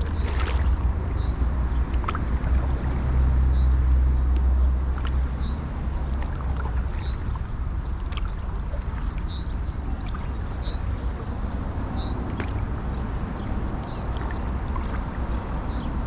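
A bird repeats a single short, high call about every second and a half, over a steady low rumble.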